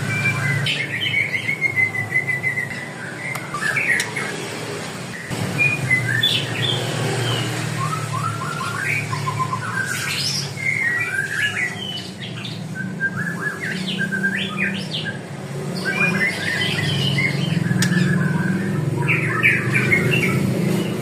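Caged songbirds chirping and calling in short runs of quick notes, several at once, over a low steady hum.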